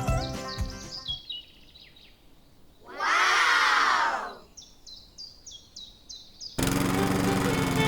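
Bird chirps, a run of short falling high notes, with a louder noisy burst of about a second in the middle. Music cuts in suddenly near the end.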